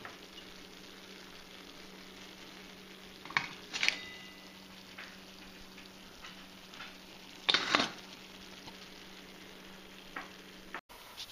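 Food sizzling faintly in a stainless skillet of fish and mixed vegetables over a steady low hum, with brief clinks and clatters about three and a half seconds in and again about seven and a half seconds in.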